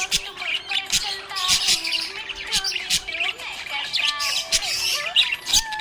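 Budgerigars chirping and squawking in a busy, continuous stream of short high chirps and warbles.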